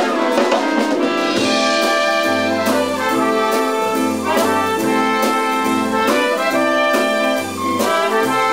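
Jazzy band music with brass (trumpets, trombones and saxophones) playing sustained chords over a regular beat.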